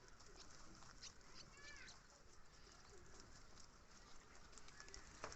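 Near silence with quiet outdoor ambience: faint scattered light ticks and rustles, and one short faint chirp about two seconds in.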